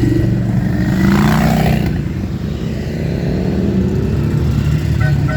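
Motorcycle engines running as a line of motorcycles rides past, with one machine's pitch falling as it goes by about a second in.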